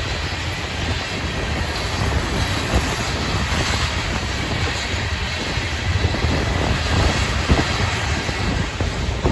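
Freight cars of a Florida East Coast Railway rock train rolling past, with a steady rumble of steel wheels on rail.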